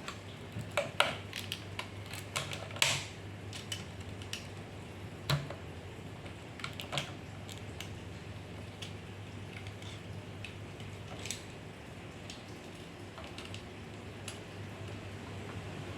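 Scattered light clicks and taps of small plastic parts and hand tools being handled while working on a juicer part, bunched in the first three seconds and sparse after, over a steady low hum.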